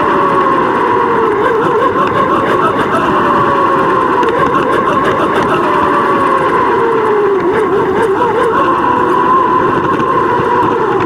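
Steady rush of wind on a bike-mounted action camera's microphone while riding, with a held tone that wavers slowly in pitch.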